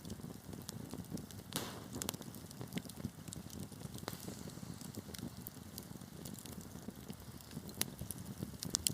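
Wood fire burning in a fireplace: a steady low rumble of flames with irregular crackles and pops of burning logs, a few louder pops near the end.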